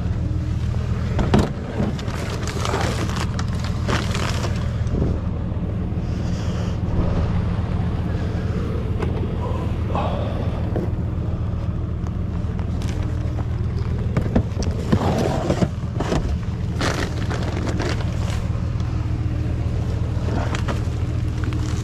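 A 4WD's engine running with a steady low drone, with occasional short knocks and rattles over it.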